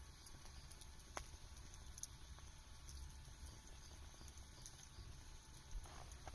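Burning firewood crackling faintly, with scattered sharp pops, the clearest about a second in and two seconds in, over a low steady rumble.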